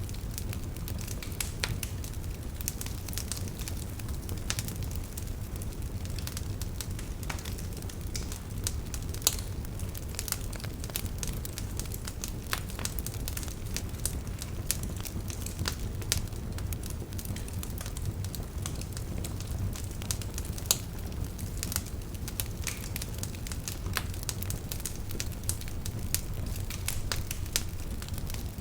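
Campfire crackling, with frequent sharp snaps and pops at irregular intervals over a steady low rush of river water.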